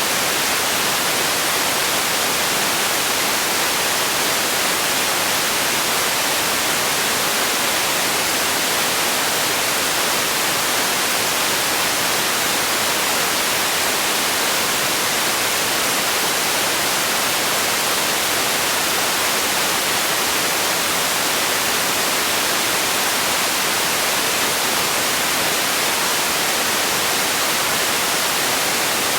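Steady, unchanging synthetic hiss, close to white noise, with most of its energy in the upper frequencies.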